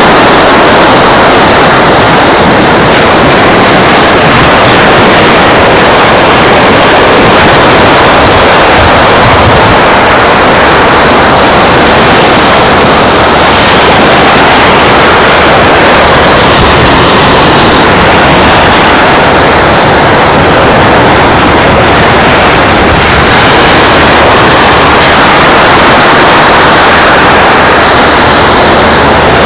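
Strong wind blowing across the microphone on a beach: a loud, steady roar that nearly overloads the recording. A higher hiss swells up three times, about a third of the way in, near two thirds, and near the end.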